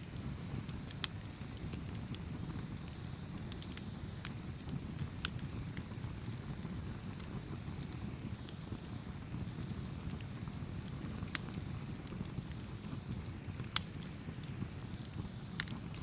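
Campfire crackling: scattered sharp pops and snaps over a steady low rumble of burning wood, with two louder pops about a second in and near the end.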